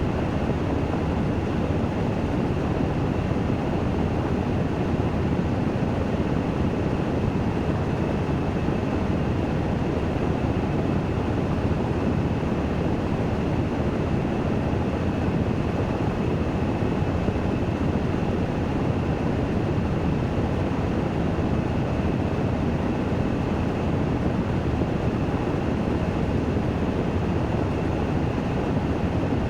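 Washing machine running its spin cycle: a steady, even rush of noise with a faint high tone running through it.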